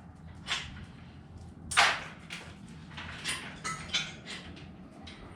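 A string of short knocks and rattles, the loudest a brief clattering burst about two seconds in, as an engine hanging from a shop-crane chain is lowered into the engine bay.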